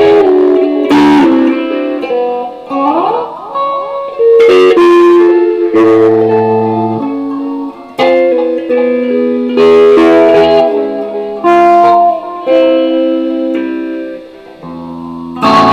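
Electric guitar playing: struck chords ringing out and sustained single notes, with a few notes sliding in pitch.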